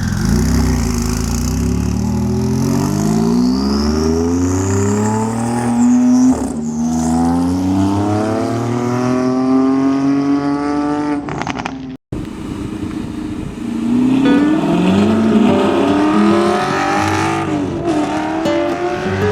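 High-performance car engine and exhaust accelerating hard, the revs climbing steeply, dropping on an upshift about six seconds in, then climbing again. After a sudden break about twelve seconds in, a car accelerates hard once more, with another shift near the end.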